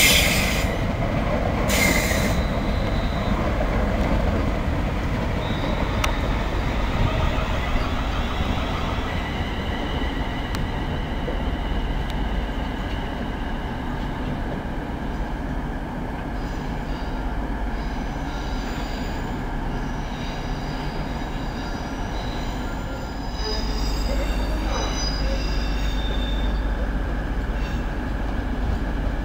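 London Midland Class 350 Desiro electric multiple unit running slowly in over the station pointwork, a steady rumble of wheels on rails with high-pitched wheel squeal on the curves, strongest in the second half.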